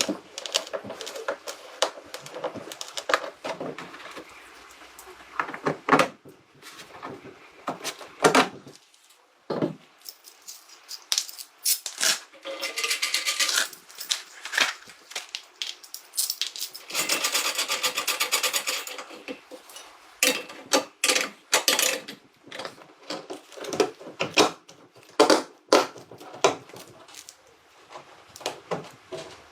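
Irregular clicks, knocks and clatter of hand tools being worked on a car, with a few stretches of scraping noise, the longest about two-thirds of the way through.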